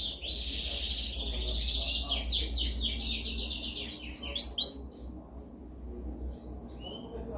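Domestic canary singing: rapid rolling trills for about four seconds, then a few separate notes, then only faint scattered chirps near the end. A steady low hum runs underneath.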